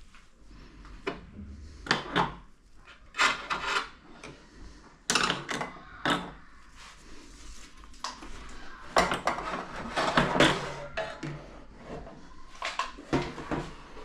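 Irregular knocks, clatter and scraping of hard objects being handled, in a dozen or so short bursts with gaps between them.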